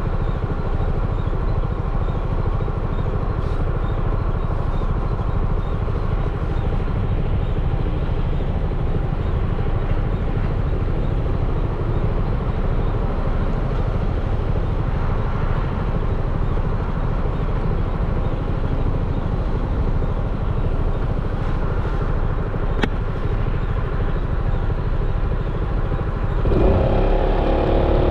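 Yamaha XMAX 300 scooter's single-cylinder four-stroke engine running while riding, under steady road and wind rumble. Near the end the engine note comes in stronger and louder, as when accelerating.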